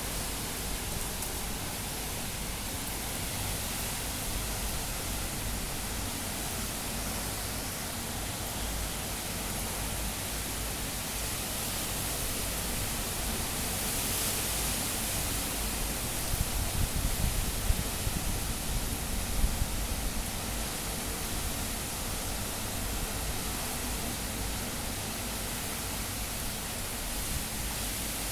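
High cyclone winds blowing steadily in a dense rush, with a spell of stronger gusts rumbling across the microphone about two-thirds of the way in.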